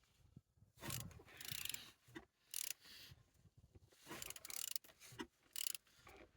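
Used car engine being turned over by hand: a run of rasping, clicking mechanical strokes with short pauses between them as the crankshaft is rotated. It turns freely, the sign that the engine is not seized.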